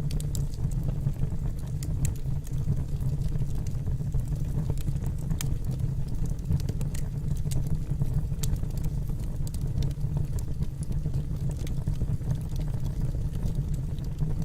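Wood fire burning in a fireplace: a steady low rumble of the flames with scattered sharp crackles and pops from the burning logs at irregular intervals.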